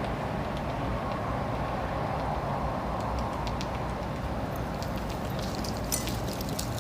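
Woodpecker pecking at a pine tree: scattered sharp taps that come thicker about two-thirds of the way through. Under them is a steady hum of distant traffic.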